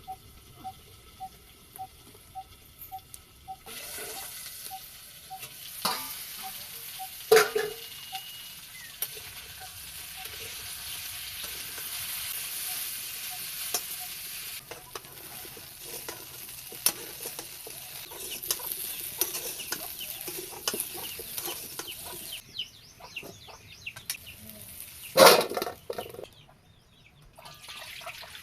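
Food sizzling in a hot pan while it is stirred, with a steady hiss starting a few seconds in and stopping about 22 seconds in. A metal spoon clinks and knocks against the pan, with two loud knocks, one early and one near the end.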